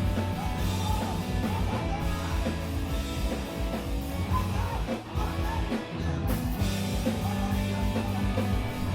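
Live screamo band playing loud amplified music: distorted electric guitars, bass and drum kit, with vocals. The band briefly drops back about five seconds in before coming back in full.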